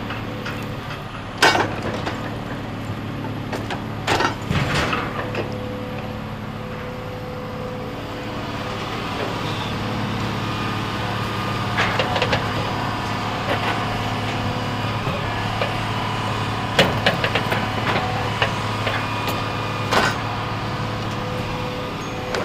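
A heavy machine's engine running steadily, picking up a little partway through, with sharp knocks and clanks now and then.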